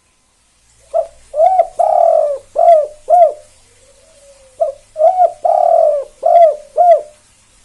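A spotted dove (tekukur) of the 'kuk 2' song type cooing. Starting about a second in, it gives two song phrases of about five coos each, every phrase holding one longer drawn-out note, with a short pause between them.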